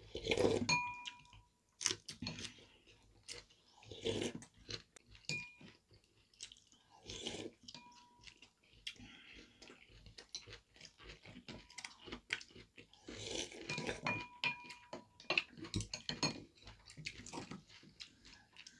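Close-up eating sounds of two people: chewing and crunching of fresh napa cabbage kimchi, with wet mouth sounds and irregular small clicks. A few short clinks of spoons and chopsticks against ceramic bowls.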